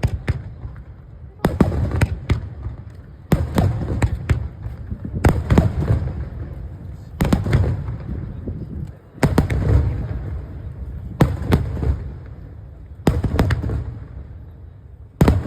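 Aerial firework shells bursting, a loud bang about every two seconds, each followed by a rolling rumble and crackle.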